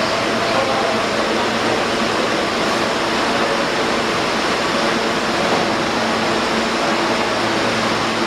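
R160B subway train at the station platform, a loud, steady rushing noise with faint steady tones underneath.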